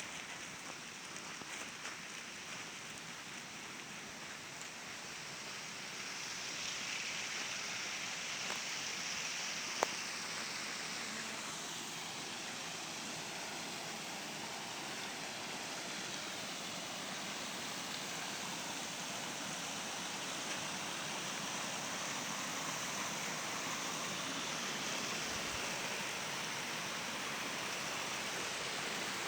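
Steady rush of flowing water, with a single sharp click about ten seconds in.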